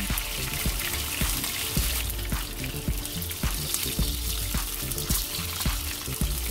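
Flour- and starch-coated pork belly pieces sizzling as they shallow-fry in oil in a frying pan, under background music with a steady beat.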